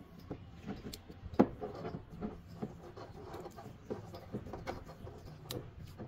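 Black electrical tape being pulled off its roll and wound around a pipe fitting by hand: irregular rubbing and small clicks, with one sharper click about one and a half seconds in.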